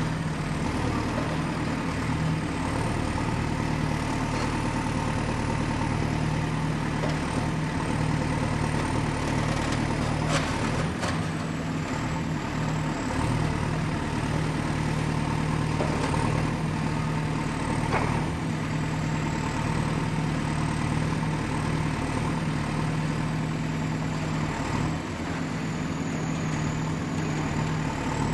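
Excavator's heavy diesel engine running steadily, with a few short knocks about ten seconds in and again past halfway, and a faint high whine that wavers in pitch.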